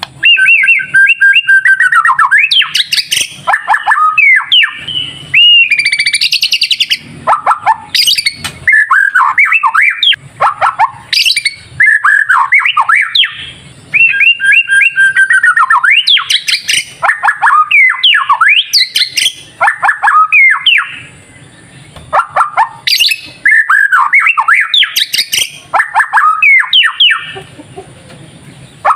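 A white-rumped shama (murai batu) singing loud, fast, varied phrases of sweeping whistles and rapid chattering notes. The phrases come in bursts with short pauses, the longest a couple of seconds around 21–23 s in.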